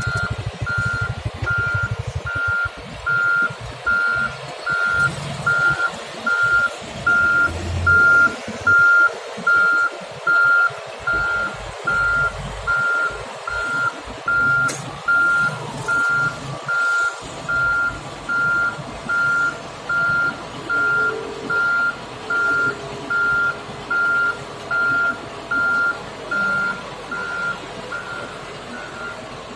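Back-up alarm of a reversing truck or road machine beeping steadily at about one beep a second, over engine rumble that fades out about halfway through.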